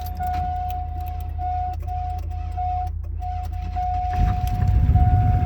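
Old GMC pickup cold-started in sub-zero weather: the starter cranks while a high in-cab warning tone sounds on and off, and about four seconds in the engine catches and starts running.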